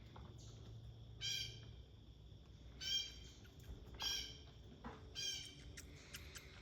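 Blue jay giving four harsh, pitched calls about a second apart.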